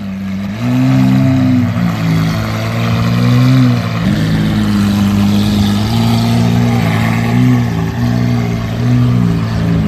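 Lamborghini Aventador's V12 running at low revs through a loud exhaust, its deep note drifting slightly up and down.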